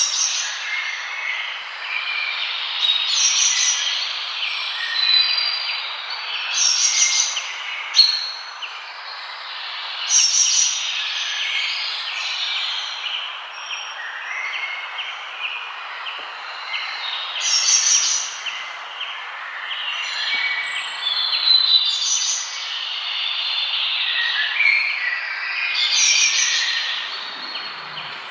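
Several songbirds singing and calling together, with overlapping chirps and whistles and a louder high phrase that recurs every few seconds. A steady hiss lies underneath.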